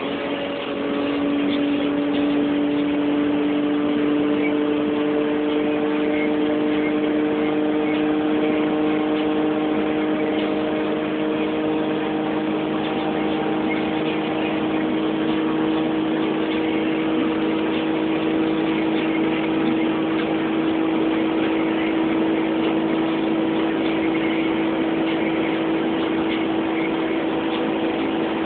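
Dodge Stealth's V6 engine under hard acceleration uphill from about 80 to 120 mph. It gets louder about a second in, then its note climbs slowly and steadily in pitch over a constant rush of road noise.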